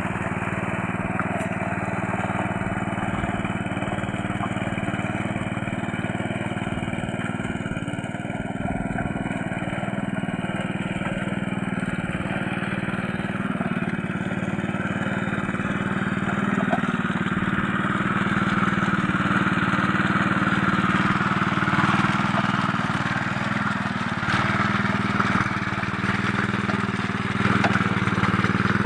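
Small two-wheel hand tractor's engine running steadily as it works a deep, muddy rice paddy, a little louder in the second half.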